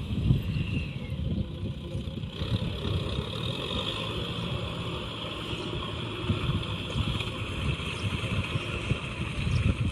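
Tractor engine running steadily, a low uneven rumble.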